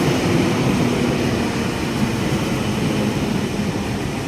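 A Sydney K-set electric double-deck train running slowly along the platform as it comes to a stand, a steady low hum over general rumble that eases slightly toward the end.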